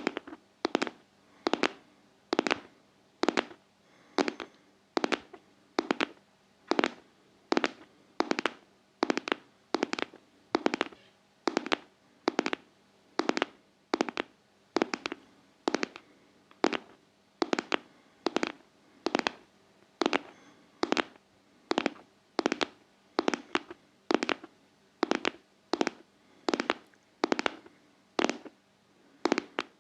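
Steady ASMR tapping in a heartbeat rhythm, about seventy beats a minute, each beat a quick double tap.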